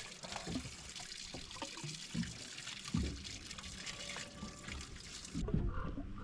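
Water pouring and trickling, with scattered small knocks. Near the end the hiss cuts off abruptly and a lower rumble takes over.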